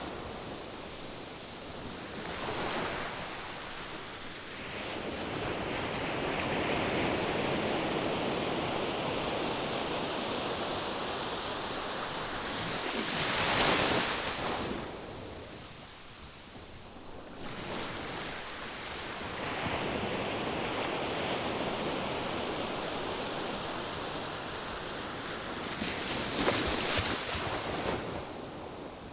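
Ocean surf: waves breaking and washing up the shore in slow swells, with the loudest breakers about halfway through and again near the end.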